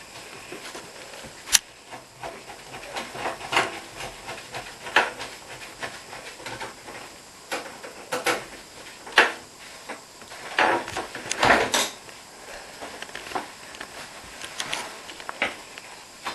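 Irregular clicks and knocks of metal parts and tools being handled while a dishwasher door hinge is refitted, with a cluster of louder knocks about ten to twelve seconds in.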